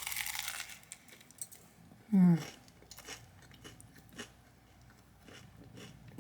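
Close-up chewing of a crunchy sandwich roll: a crunching burst in the first second, then small scattered chewing clicks. About two seconds in, a short voiced sound falling in pitch is the loudest event.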